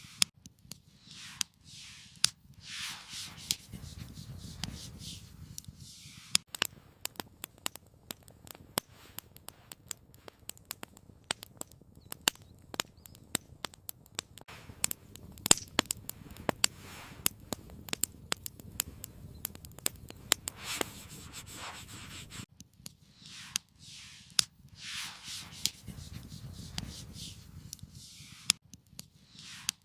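Campfire crackling with many sharp, irregular pops and clicks through the middle, with stretches of rustling and scraping, like gear or wood being handled, near the start and again near the end.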